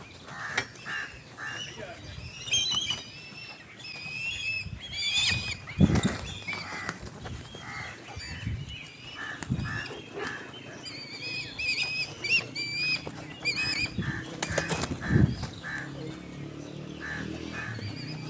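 Black kites calling: repeated high, wavering whistled calls, with shorter calls in between and a couple of dull thumps.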